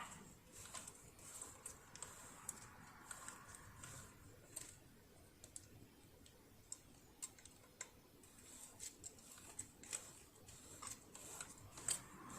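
Faint, irregular light clicks and taps of hand tools and small metal parts being handled on a household sewing machine under repair.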